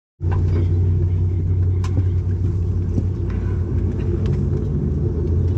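Steady low drone of a Dash 8 Q400's Pratt & Whitney PW150A turboprop engines and propellers, with a few faint clicks over it.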